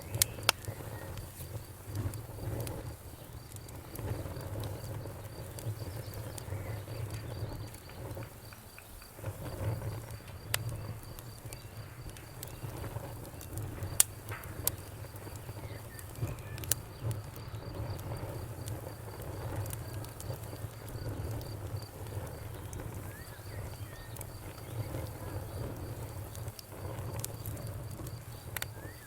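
Fireplace fire crackling: a steady low rumble of the flames with scattered sharp pops from the burning wood, one louder pop about halfway through.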